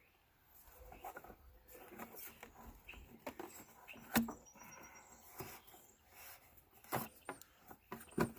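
Scattered light clicks and knocks of parts being handled and fitted as the four-wheeler is put back together; the sharpest click comes about four seconds in, with a few more near the end.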